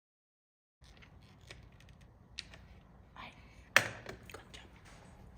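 After about a second of dead silence, scattered small clicks and taps from hardware being handled, with one sharp knock about four seconds in.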